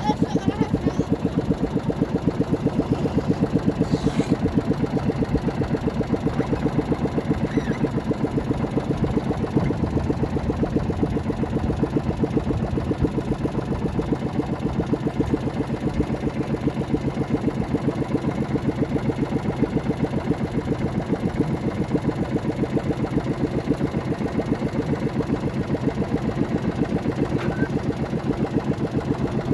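A small engine running steadily at an even, unchanging pace.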